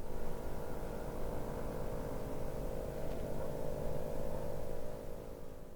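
Ferrari 458 Speciale's V8 with straight-pipe exhaust running at fairly steady revs, dropping slightly in level near the end.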